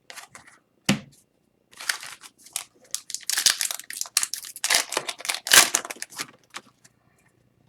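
A foil pack of hockey cards being torn open and crinkled: a dense crackly rustle through the middle, with scattered sharp clicks before it.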